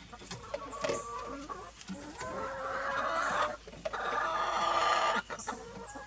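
Chickens clucking, with two longer calls of about a second each around the middle.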